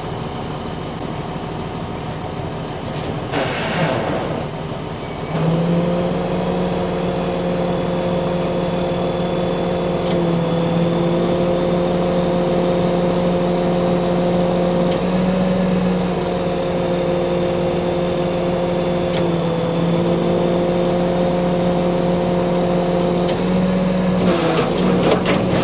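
An engine starts running at a steady speed about five seconds in, with a few small shifts in pitch along the way.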